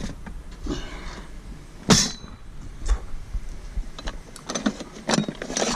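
Pieces of scrap metal knocking and clattering as they are handled. There is one sharp clank with a brief ring about two seconds in, another knock a second later, and a quick run of smaller clinks near the end, over a low steady rumble.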